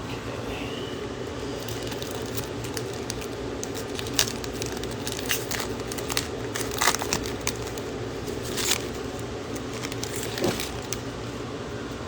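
Crinkling and crackling of a trading-card pack wrapper being torn open and the cards handled, in scattered sharp snaps, mostly in the second half. A steady fan-like hum runs underneath.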